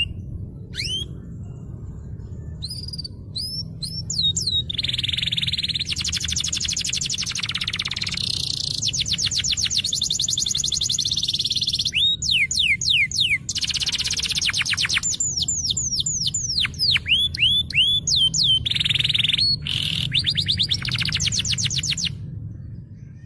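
Domestic canary singing a long, varied song: single falling whistled notes at first, then long runs of rapid trills and fast repeated notes, stopping about 22 seconds in. A steady low hum lies underneath.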